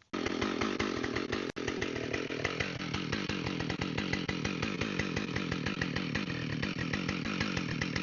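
Chainsaw running at full throttle while bucking a fallen red oak log, its tone shifting about three seconds in as the chain works into the wood.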